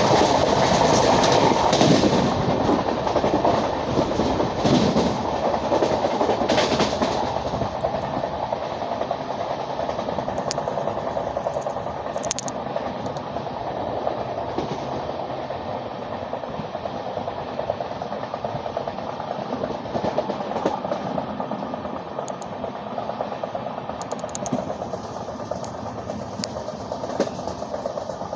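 Running noise of an Indian Railways train of LHB coaches, wheels on rails with a few sharp clicks, getting gradually quieter through the stretch.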